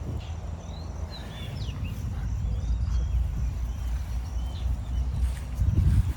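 Wind buffeting the microphone in a steady low rumble that swells near the end, with small birds chirping briefly several times over it.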